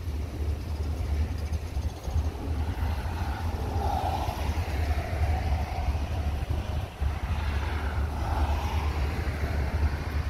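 Freight train of tank cars rolling across a steel girder bridge overhead: a steady rumble of wheels on rail that swells twice, with heavy wind noise on the phone's microphone.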